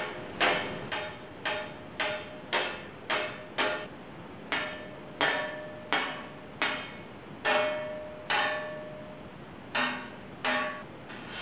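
A series of sharp strikes on something that rings, about sixteen at an uneven pace of one or two a second. Each strike leaves a short ringing tone that fades, the longest ring about two-thirds of the way through.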